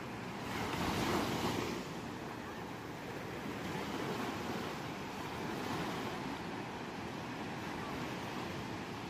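Ocean surf: waves washing onto a shore, the loudest breaking about a second in, followed by smaller swells.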